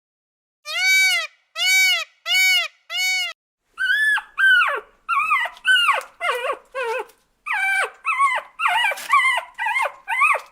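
Animal calls: four evenly spaced, rising-and-falling calls, then from about a third of the way in a quick run of short, high, falling whines.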